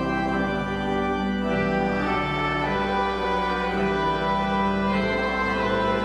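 Church organ playing slow, sustained chords, the notes shifting every second or so.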